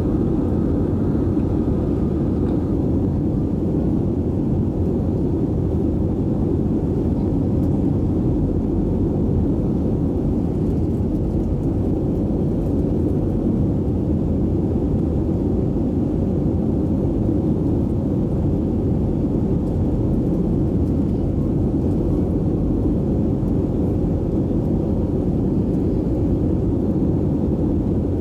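Steady cabin noise of an Airbus A320 airliner in flight: an even, low roar of engines and airflow with a faint steady hum.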